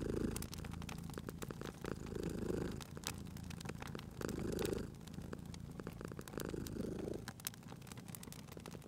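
A cat purring steadily, its purr swelling in waves about every two seconds, over the crackling and popping of a wood fire in a fireplace.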